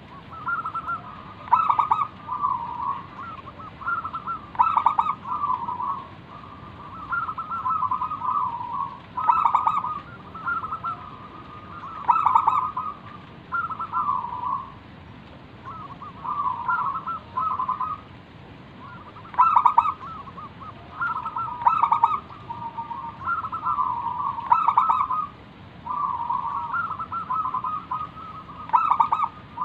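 Zebra dove (perkutut) singing its full cooing song: repeated phrases of quick trilled coos, a new phrase every two to three seconds, with short sharp notes among them.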